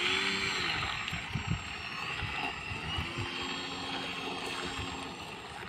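Cessna propeller plane running steadily on the ground as it taxis, with a high propeller hum and a few held tones; it eases off slightly toward the end.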